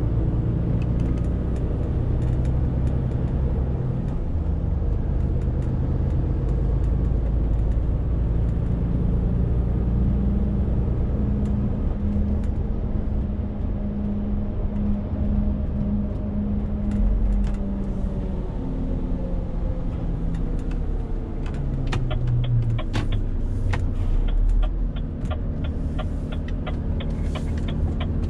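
Renault T520 truck's diesel engine running under a 40-tonne load while driving, a steady drone whose pitch shifts up and down several times. A run of regular sharp ticks joins in over the last few seconds.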